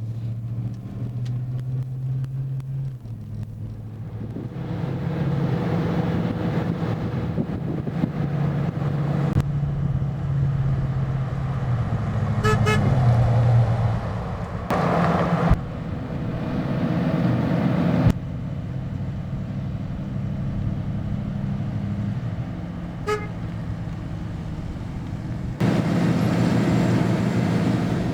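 1996 Ford Bronco's 5.8-litre V8 running, its pitch stepping up and down several times with a few abrupt changes in sound. Two short high tones sound, one about halfway through and one near the end.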